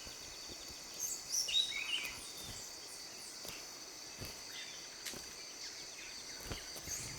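Rainforest ambience: a steady high insect hum, with short bird chirps about one to two seconds in and again near the end, and a few scattered sharp clicks.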